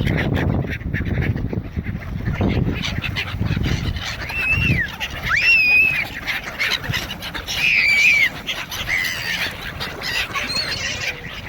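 Gulls and ducks calling, with a few loud, arching cries in the middle and rougher low calls in the first few seconds.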